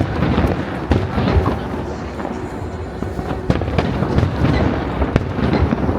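Aerial fireworks bursting in quick succession: sharp bangs, about a second in, near the middle and again after five seconds, over continuous crackling and a low rumble, with music playing along.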